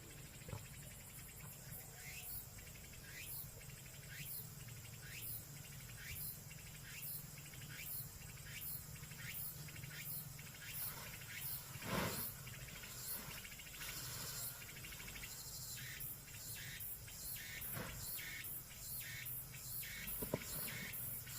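Insects chirping in an even rhythm of about two high pulses a second, over a repeated short falling call and a steady low hum. A single louder knock comes about twelve seconds in.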